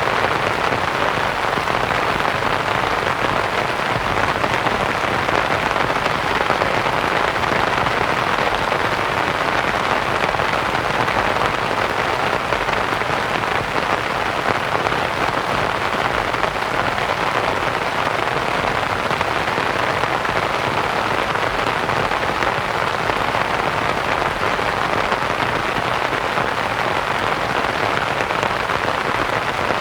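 Steady rain on a canvas tent mixed with soft white noise: an even hiss with no separate drops or changes.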